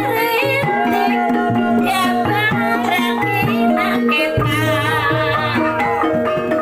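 Javanese traditional music of the kuda lumping kind: hand drums playing a quick rhythm under a wavering, ornamented melody line, with held ringing tones.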